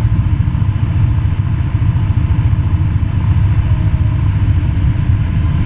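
Cessna 172's piston engine and propeller in flight, heard inside the cabin as a loud, steady low drone.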